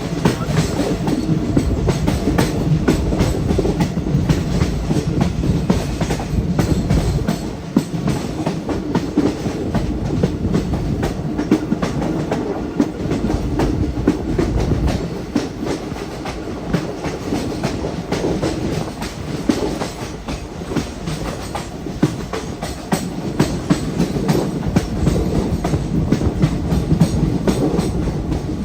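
Train running along the track: a continuous rumble with the clickety-clack of wheels over rail joints.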